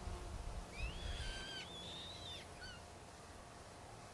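A bird singing a short whistled phrase of rising, held and falling notes, over a faint low rumble.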